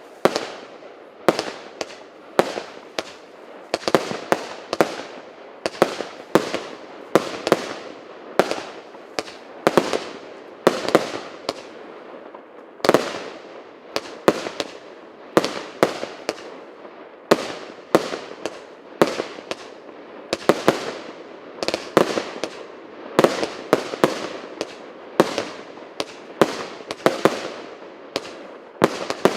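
A 150-shot consumer firework battery (cake) firing, a rapid string of loud reports about two a second, each trailing off briefly.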